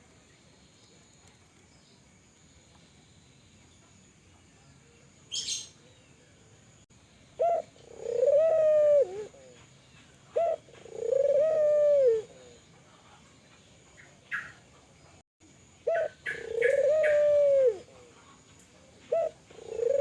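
Spotted dove (tekukur) cooing: about seven seconds in it begins a repeated call of a short note followed by a longer arching coo, given four times about three seconds apart. A few brief high chirps come between the calls.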